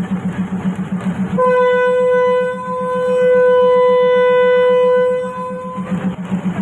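Train horn sounding one long single-note blast of about four seconds, briefly dipping in loudness before sounding on stronger, over a steady, rapidly pulsing low rumble of the running train.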